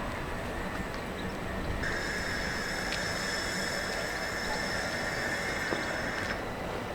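Southeastern Class 375 electric train running, a steady rumble with a high electrical whine that starts suddenly about two seconds in and cuts off near the end.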